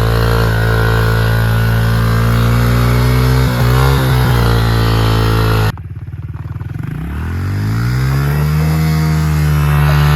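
A small motor running steadily at high speed. About six seconds in it drops abruptly, then climbs back up in pitch over a couple of seconds and holds steady again.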